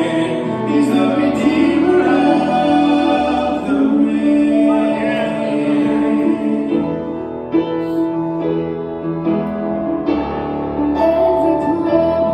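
Singers performing a gospel song with instrumental accompaniment, holding long sung notes.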